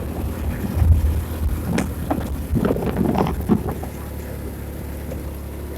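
A vehicle's engine running steadily on the move, with wind on the microphone. Between about two and three and a half seconds in there is a cluster of short knocks and rattles.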